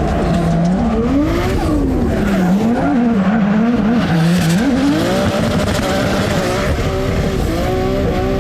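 Drift car engine revving up and down again and again as the throttle is worked through a drift, with tyre squeal.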